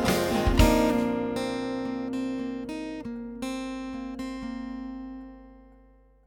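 Music: guitar strummed, then a few single plucked notes left ringing as the sound fades out to silence near the end.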